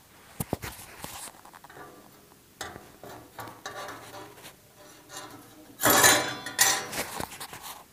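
Steel parts of a Baikal 8 Aqua wood-burning stove being handled: a few light metal clicks and knocks, then a loud clattering scrape with metallic ringing about six seconds in.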